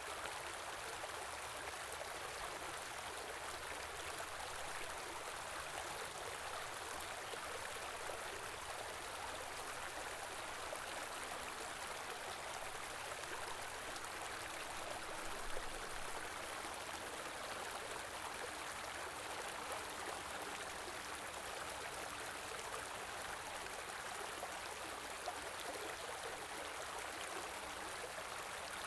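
A stream flowing steadily over stones, an even rushing and babbling of water, with a brief louder splash about halfway through.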